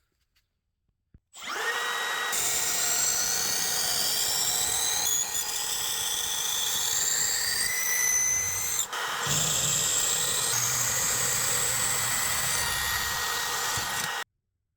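Electric drill running steadily with a high whine that shifts in pitch. It starts about a second and a half in, dips briefly about nine seconds in, then cuts off suddenly.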